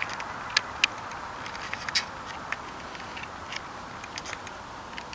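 Steady background hiss with irregular small clicks and ticks scattered through it.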